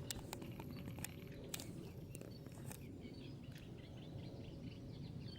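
Small birds chirping faintly in the background over a steady low rumble, with a few sharp clicks in the first three seconds.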